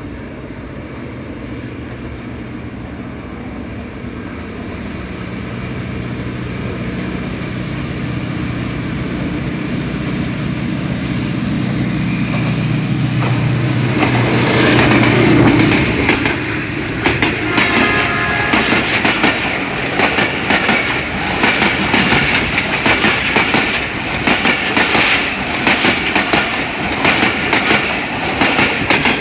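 Diesel locomotive of a passenger train approaching and passing, its engine hum growing steadily louder until it goes by about halfway through. The coaches' wheels then clatter rapidly over the rail joints as they run past.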